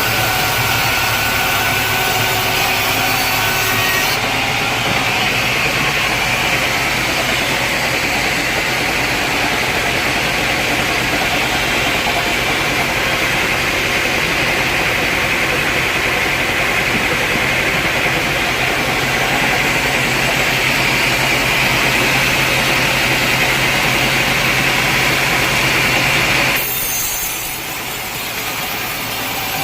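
Sawmill saw cutting steadily through a large teak log, a continuous rasping over a steady machine hum. About three seconds before the end the cutting sound stops and only the machine runs on, unloaded.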